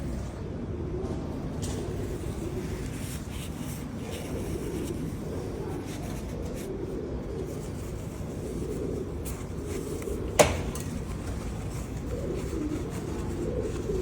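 Low, steady rumble of wind buffeting a lavalier microphone hidden under a fur windscreen, with a single sharp click about ten seconds in.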